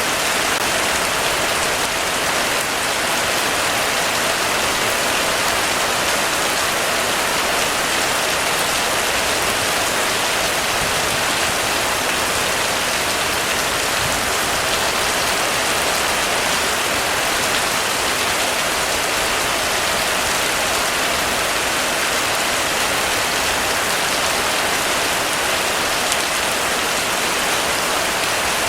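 Heavy rain falling steadily on a roof, a dense even hiss of drops with no letup.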